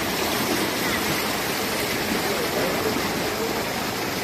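Floodwater from a flash flood rushing in a steady, even roar of water.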